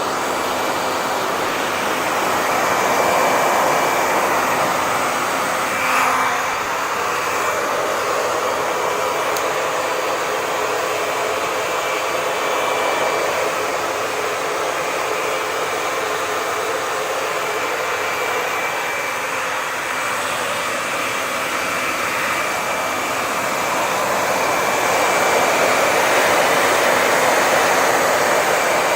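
Hair dryer running steadily: a continuous rush of blown air with a faint motor whine. There is a brief click about six seconds in.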